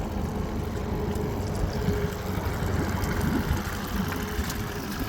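2001 Yamaha 8 hp long-shaft four-stroke outboard motor idling steadily and running well after its carburetor was cleaned of water-contaminated fuel.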